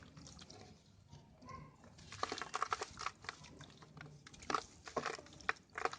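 Dried sand-cement pieces being crushed and crumbled, with sharp crunching and crackling that starts about two seconds in and comes in quick clusters, with several loud snaps near the end.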